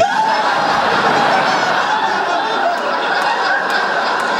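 Studio audience laughing, a sustained wave of many people's laughter.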